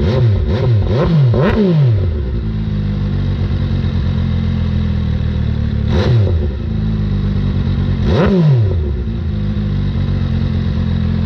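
MV Agusta motorcycle engine revved in four quick blips of the throttle, then idling steadily, with two more sharp revs about six and eight seconds in.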